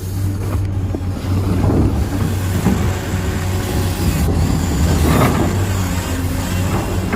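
Radio-controlled model construction vehicle running, a steady motor hum with irregular mechanical rattling and whirring over it.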